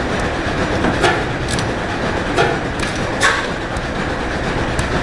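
Columbus 25 hp cam stopper hit-and-miss engine running: a steady low mechanical rumble with sharp clacks at uneven spacing, roughly one a second.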